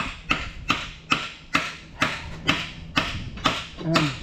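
Hammer blows on the metal of a corn head, about two a second, each with a short ring: working two stubborn pins into line during reassembly.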